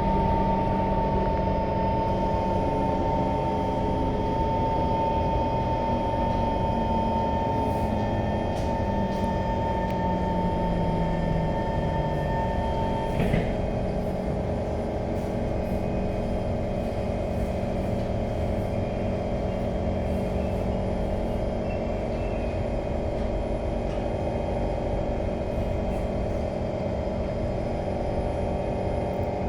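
C151 metro train running between stations: a steady rumble with motor whine tones. A high whine cuts off with a click about halfway through, after lower tones fall in pitch, and the train keeps rolling with a steadier running noise.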